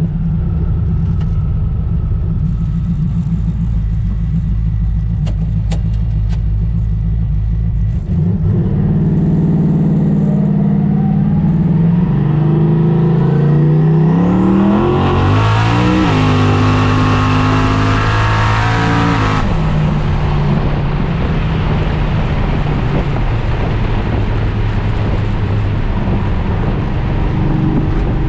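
Twin-turbo 4.6-litre two-valve V8 Mustang heard from inside the cabin: it runs steadily at low revs, then accelerates hard about eight seconds in, its revs rising and stepping back down at each upshift made by the air shifter. A loud rushing hiss builds during the pull and cuts off suddenly, and the engine then settles to a steady cruise.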